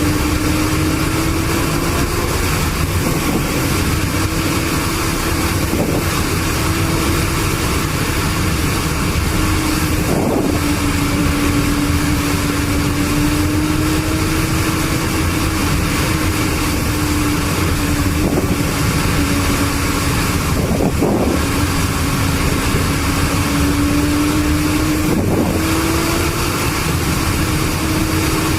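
A motor vehicle's engine running at a steady cruise, its drone drifting only a little in pitch, over constant road and wind noise. A few brief swells come and go, about five times.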